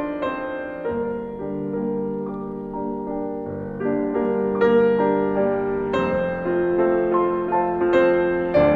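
Slow, gentle piano music: sustained notes and chords, with a new note or chord struck about every second.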